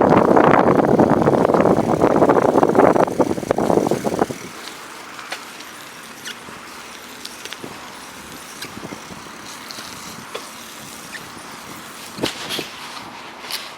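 Strong wind buffeting the microphone for about the first four seconds, then it drops suddenly to a quieter hiss with scattered small clicks.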